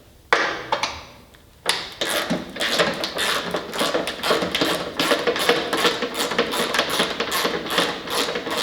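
A ratchet wrench working a bolt: a sharp click just after the start, then from about two seconds a fast, continuous run of metallic clicks.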